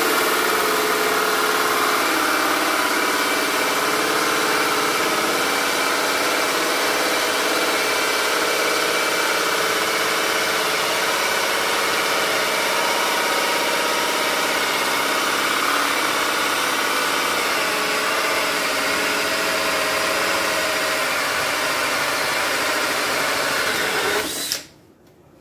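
Cordless drill in second gear driving a 2 1/8-inch (54 mm) doorknob hole saw through a door, its motor running steadily under heavy pressure, then stopping about a second before the end. The long, hard cut builds friction heat in the saw.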